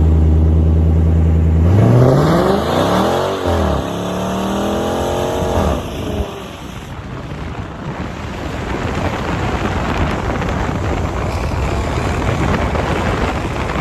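Car engine held at a steady speed, then revved up and down twice, followed by a steady rushing noise for the rest of the stretch.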